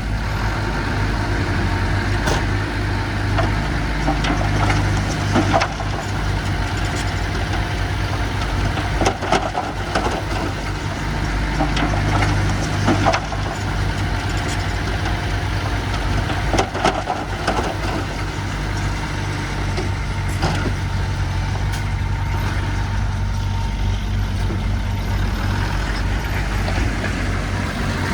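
Diesel engine of heavy earthmoving machinery running steadily at a low, even pitch, with scattered knocks and clanks over it.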